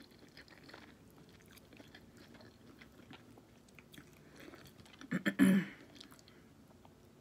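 A person chewing food with her mouth closed: faint, irregular chewing clicks, then a short, louder mouth noise about five seconds in.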